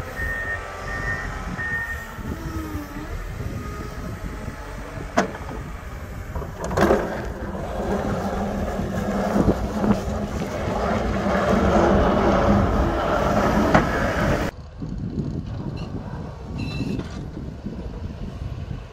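Snowplow vehicle's engine running, with a reversing alarm beeping for the first two seconds. The engine noise grows louder midway, then drops suddenly about three-quarters of the way through.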